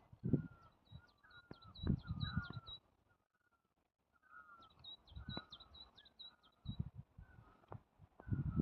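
Forest birds singing: two phrases of quick, high, repeated chirps, each lasting about two and a half seconds with a pause between, alongside lower curving whistled notes. Scattered low thumps are mixed in.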